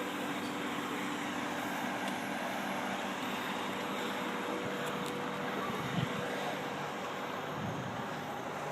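Ferrara aerial fire truck's engine running with a steady drone and a few held tones, heard from up in the raised bucket under a hiss of wind noise. A brief knock comes about six seconds in.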